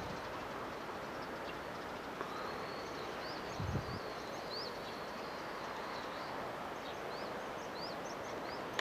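Small birds chirping repeatedly over a steady outdoor background hiss, with one brief low thump a little before the middle.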